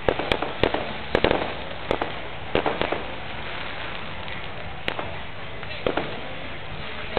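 A fireworks display bursting: a string of sharp bangs, most of them packed into the first three seconds, then single bangs about a second apart, over steady background noise.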